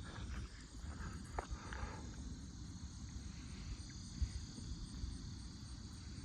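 Night insect chorus trilling steadily at a high pitch, over a constant low rumble, with a couple of faint knocks.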